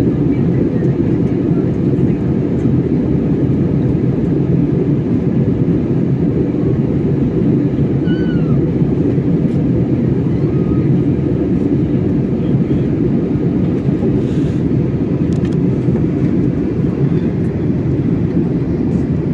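Steady low rumble of a passenger airliner's engines and airflow, heard from inside the cabin.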